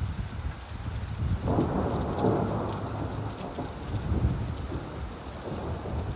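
Steady rain falling, with a low rumble of thunder that swells about a second and a half in and slowly fades.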